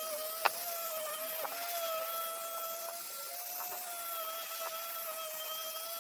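A small power tool's electric motor running steadily with a high whine that wavers slightly in pitch, with a sharp click about half a second in.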